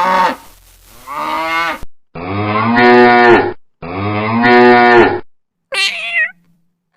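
A cow mooing twice, two long, loud moos back to back in the middle. Before them, in the first two seconds, the end of a lion's roar.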